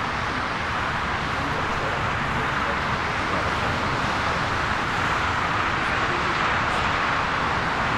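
Jet airliner engine noise: a steady rushing sound that slowly grows louder.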